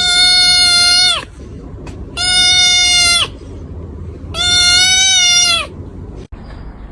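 An animal crying out three times in long, loud, steady-pitched calls of about a second each, evenly spaced.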